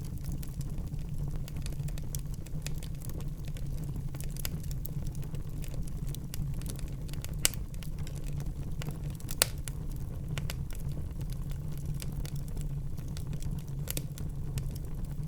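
Wood fire burning in a fireplace: a low steady rumble of the flames with irregular crackles and small snaps, and two sharper pops about halfway through.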